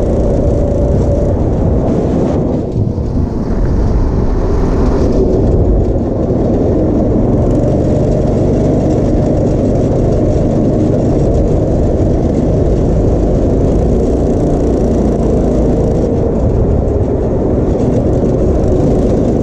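Go-kart engine running steadily during a ride, easing off briefly about two to three seconds in before picking back up.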